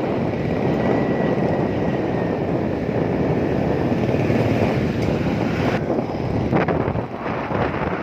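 Strong wind gusting over the microphone, a steady rushing rumble, with a few short knocks near the end.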